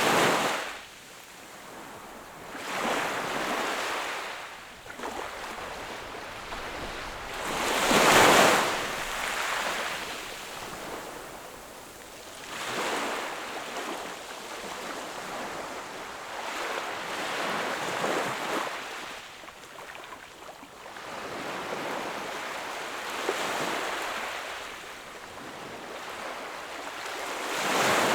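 Sea waves breaking and washing up the shore one after another, each a rushing swell that rises and falls away every few seconds. The loudest wave comes about eight seconds in.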